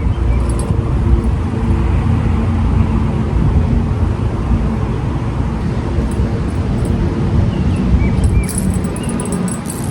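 An engine running steadily with a low rumble, its pitch holding level. Faint metallic jingling comes in near the end.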